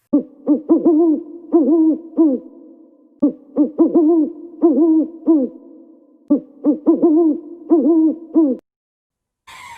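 Owl hooting: three runs of short, repeated hoots with brief pauses between them.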